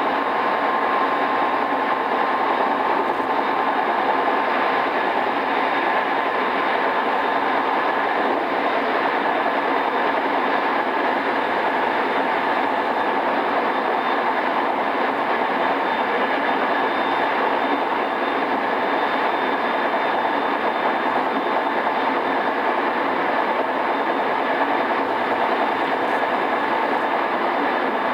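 Steady running noise inside a JR East E217-series electric multiple unit motor car at speed: an even rumble from the wheels and running gear, with no stops or changes, heard in a cassette-tape recording.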